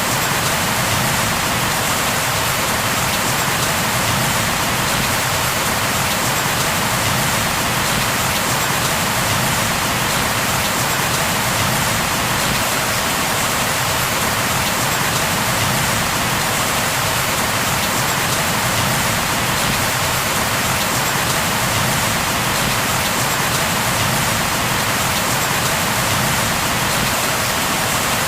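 Steady, heavy rain falling on a surface, an even unbroken hiss with no thunder or other events.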